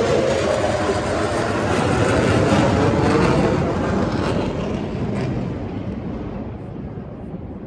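Military aircraft engine noise from a flypast, loud at first and then fading and growing duller over the last few seconds as the aircraft moves away.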